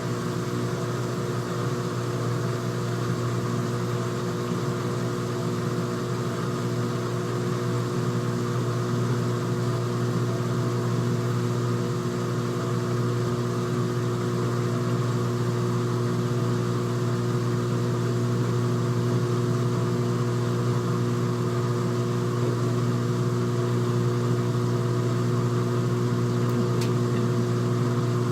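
Front-loading washing machine's drain pump running with a steady hum as it pumps water out of the tub.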